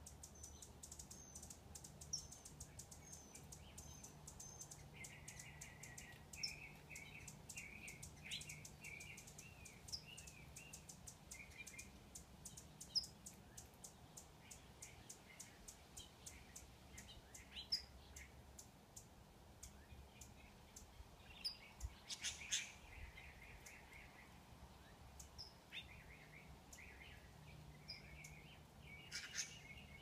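Faint bird chirps and short chattering phrases coming in several bursts: one run in the first third, another about two-thirds of the way through, and more near the end. Under them runs a fast, even, high ticking through the first half and a steady low hum.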